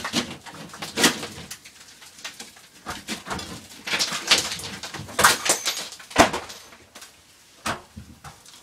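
A series of irregular sharp knocks and clicks, the loudest about one second in and again about five and six seconds in.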